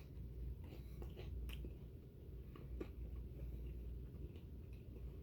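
A person chewing a bite of grilled cheese sandwich dipped in tomato bisque: faint, soft, irregular clicks of chewing over a low steady hum.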